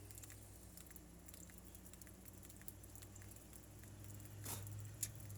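Light rain pattering, scattered drips and taps over a steady low hum, with a brief swell of noise about four and a half seconds in.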